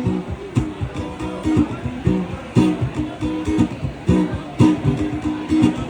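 Guitar strummed in a steady rhythm, chord after chord with no singing, a few strokes hit harder than the rest.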